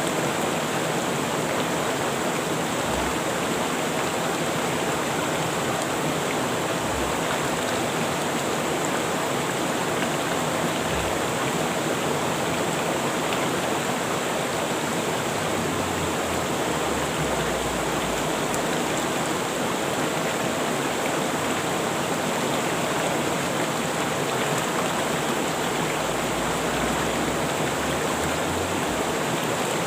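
River water rushing and flowing over rocks: a steady, even rush.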